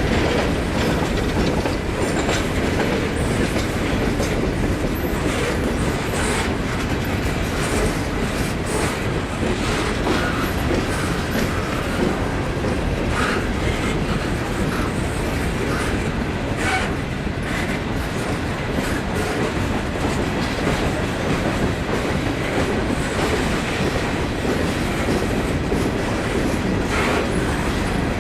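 Freight train rolling by, steel wheels clicking over rail joints in a steady rumble, with a few short squeals scattered through.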